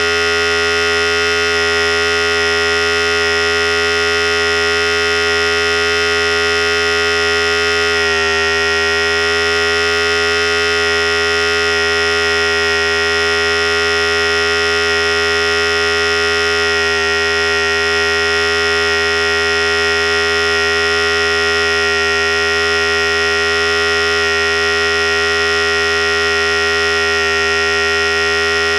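Philips Series 5000 electric hair clipper running steadily with a continuous motor buzz.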